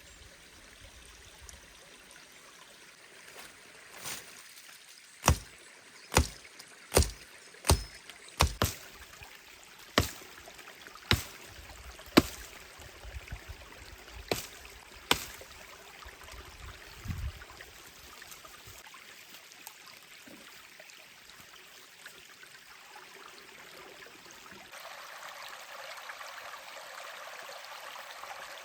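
Stream water running steadily, with about a dozen sharp knocks roughly a second apart in the first half.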